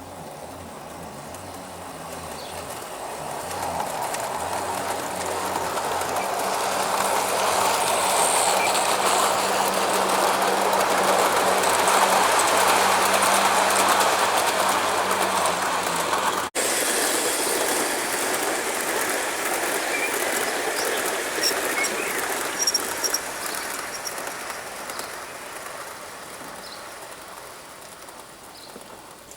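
O gauge model diesel locomotive and its train running along garden railway track: a rumble of wheels on the rails that builds up as the train comes close and then slowly fades as it draws away. A steady low hum from the locomotive runs under it for the first half and stops abruptly about halfway through.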